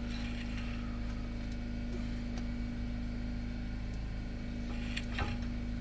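A steady low hum runs throughout, with a few light clicks about five seconds in from hand tools working at the truck's front wheel hub.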